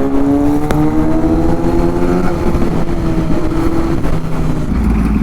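Kawasaki inline-four motorcycle engine and exhaust under acceleration. The note rises slowly for about two seconds, holds, then eases off into a deeper rumble near the end.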